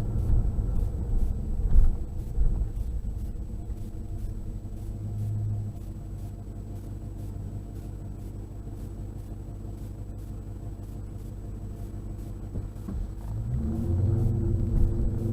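Exhaust of a 2016 Dodge Charger with a Gibson muffler, heard from inside the cabin as a low rumble. It is loud at first, eases off to a steady, quieter drone, and builds up again near the end as the engine pulls harder.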